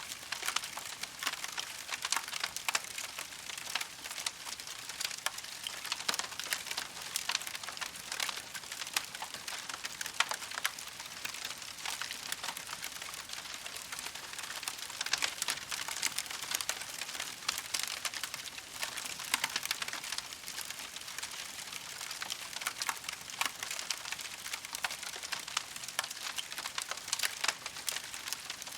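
Campfire crackling: a steady stream of irregular sharp snaps and pops over a soft hiss.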